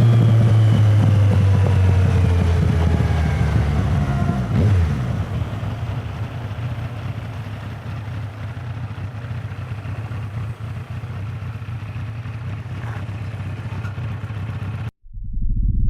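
Motorcycle engine, loud at first, its pitch falling and its level fading over several seconds as it moves off into the distance, leaving a fading rumble. The recording cuts off abruptly near the end, and another sound starts.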